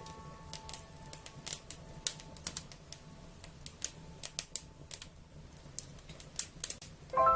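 Wood fire crackling with irregular sharp snaps and pops, several a second. Soft ringing musical notes fade out in the first second or so, and a new cluster of notes comes in near the end.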